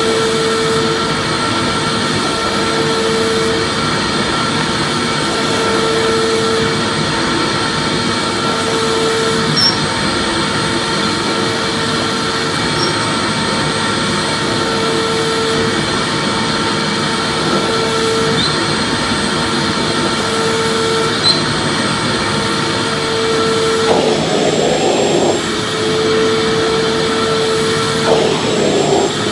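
Vacuum cleaner running steadily, a loud even whoosh with a steady whine. A low hum in it swells and fades about every two seconds, and the sound briefly shifts twice near the end.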